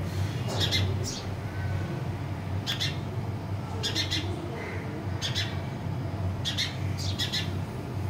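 Small perching birds chirping: about six short clusters of rapid, high chirps, over a steady low hum.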